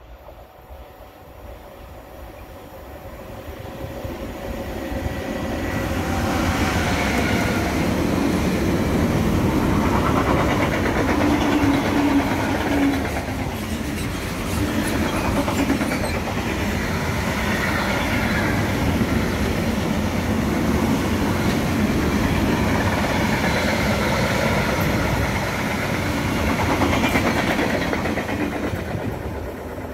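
Freight train running through a station without stopping: its rumble grows louder over the first several seconds as it approaches. Then comes a long, steady rolling rumble and clatter of freight wagons going by, which eases off only near the end.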